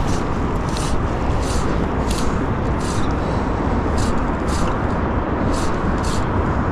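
Steady rush of river water with a short swish about every two-thirds of a second from the steps of someone wading out through the shallows.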